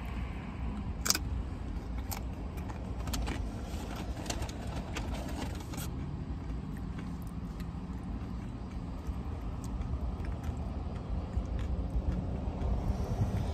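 Tortilla chips dipped in guacamole being bitten and chewed: a run of crisp crunches, mostly in the first six seconds, the sharpest about a second in, then softer chewing. A steady low hum of the car cabin runs underneath. The chips are stale.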